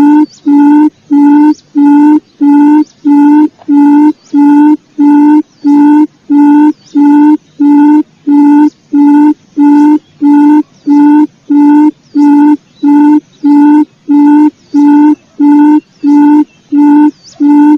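Recorded quail lure call played on a loop: a low hooting note repeated evenly, about one and a half times a second.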